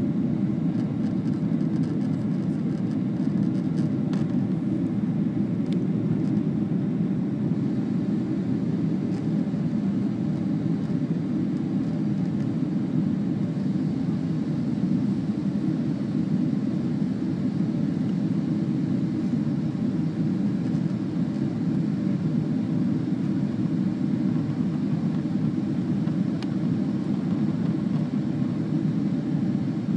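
Steady airliner cabin noise in flight: a low, even jet-engine and airflow rush heard from inside the passenger cabin.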